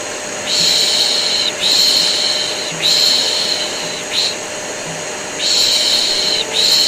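A person's hushing 'shh, shh', repeated about once a second with a short pause about two-thirds through, over the steady whoosh and hum of a vacuum cleaner. This is a white-noise mix used to soothe a colicky baby to sleep.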